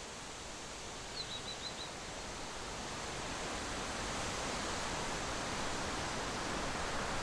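Steady outdoor rushing noise that slowly grows louder, with a bird giving five quick high chirps about a second in.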